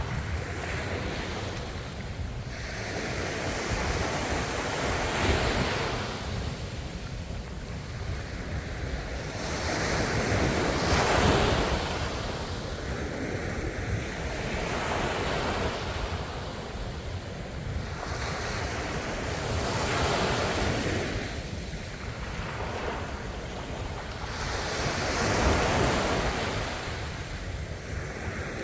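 Ocean waves breaking on the shore, a steady wash of surf that swells into a louder surge every several seconds and then draws back.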